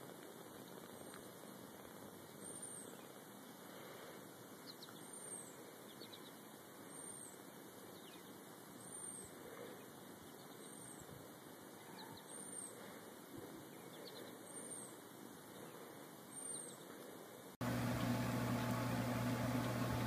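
Faint outdoor ambience with a bird's short, high chirp repeated about every two seconds. Near the end a louder steady low hum cuts in.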